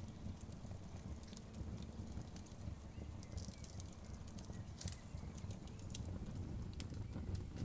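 Wood fire crackling in a fireplace: frequent sharp snaps and pops of burning logs over the low steady rumble of the flames.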